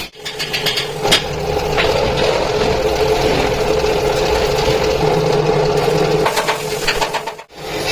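A workshop machine running steadily with a constant hum, with scattered metallic clicks and knocks over it; the sound breaks off briefly near the end.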